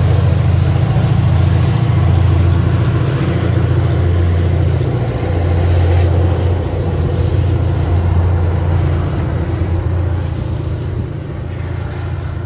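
A train passing close by with a loud, steady low rumble that eases slightly near the end.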